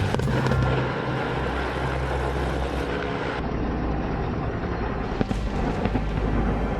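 Steady low rumbling vehicle noise.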